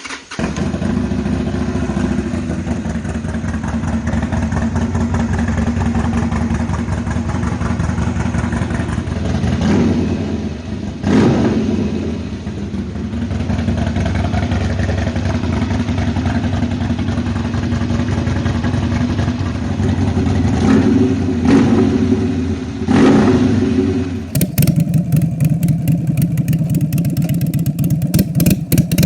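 Harley-Davidson Sportster's air-cooled V-twin running through a 2-into-1 aftermarket exhaust: a steady running beat with several quick throttle blips. After about 24 seconds the exhaust note turns louder and sharper.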